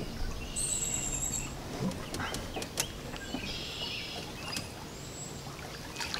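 Small birds singing and trilling in high, thin phrases, with a few sharp knocks scattered through.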